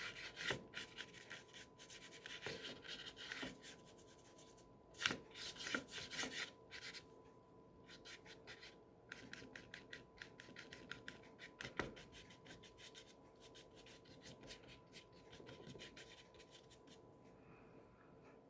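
Stiff bristle brush scrubbing and dabbing thick gouache onto paper: short scratchy strokes in several bursts, with pauses between them.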